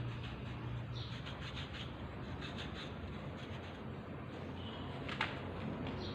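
Light scratching and rubbing with scattered small clicks, typical of hand work on engine parts and tools, over a low steady hum; one sharper click about five seconds in.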